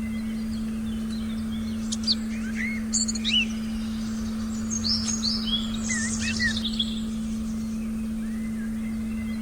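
Birds chirping and calling, in short quick sweeps: a cluster about two to three seconds in and a busier one around five to seven seconds. Under them runs a steady low electronic tone.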